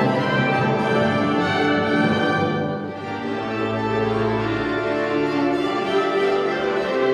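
Orchestra with strings playing sustained chords of a classical piece, easing briefly about three seconds in before the next held chords.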